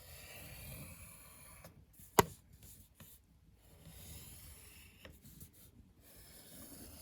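Faint scratchy rubbing of drawing strokes, with one sharp click about two seconds in.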